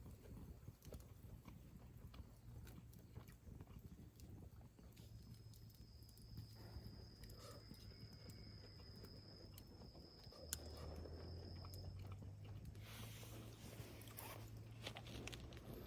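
Faint, sparse crackling and popping of a small wood fire in a fire pit. A thin, steady high tone runs for several seconds in the middle.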